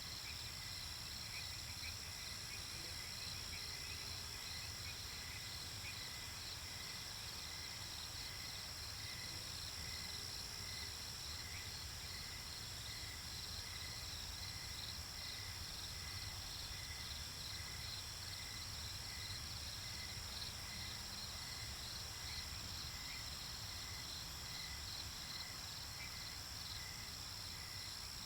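Night-time nature ambience of crickets and other insects chirping steadily, with a high continuous trill over a regularly pulsing chirp, and a low rumble underneath.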